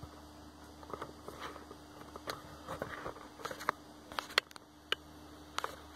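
Scattered light clicks and taps of handling, likely the phone camera and multimeter probes being shifted around, over a steady faint hum.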